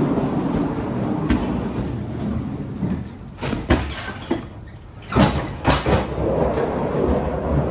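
Low steady rumble of a running truck that dips about halfway, broken by several sharp clanks and knocks over about three seconds before the rumble returns.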